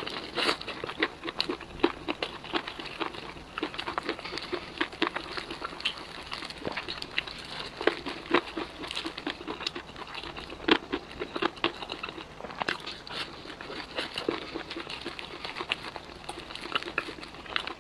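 Crispy fried chicken being bitten and chewed: a dense, irregular run of crunches and crackles.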